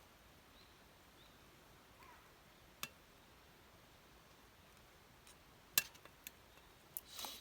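Wood campfire crackling sparsely over a quiet background, with a few sharp pops, mostly in the second half, and a short burst of crackle at the end.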